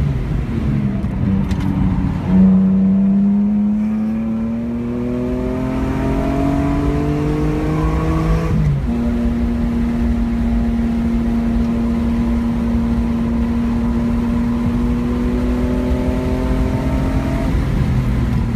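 BMW E46 M3's 3.2-litre straight-six, heard from inside the cabin, pulling hard under full throttle out of a corner. Its pitch climbs steadily for about six seconds, then drops with an upshift about nine seconds in. After that it runs at a near-steady high pitch that creeps slowly upward, and eases off near the end.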